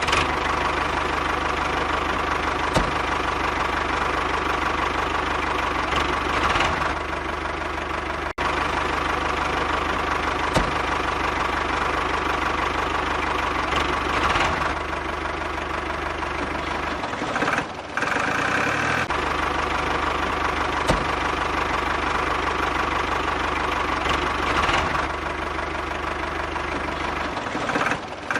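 A motor running steadily with an engine-like knocking hum. It cuts out sharply for an instant about eight seconds in, and its tone changes briefly twice later on.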